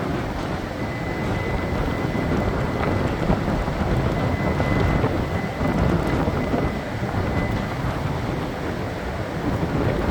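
E3 series Shinkansen train pulling out of a station platform: a steady low rumble of the moving train, with a faint high tone held for about the first seven seconds.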